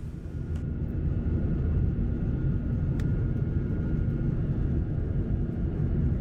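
Steady cabin rumble of a Boeing 737-800 in flight, with its CFM56 engines and airflow making a low, even roar and a faint steady hum. There is one faint click about halfway through.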